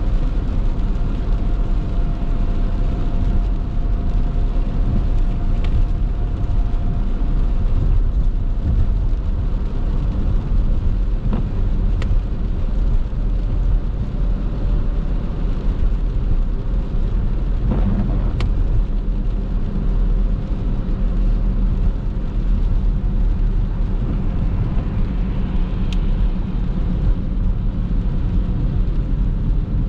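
Steady low rumble of a car driving on a rain-wet road, heard from inside the cabin, with a few faint clicks.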